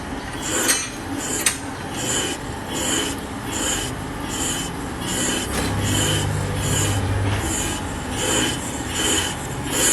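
A metal part filed by hand: steady back-and-forth rasping strokes, about one and a half a second.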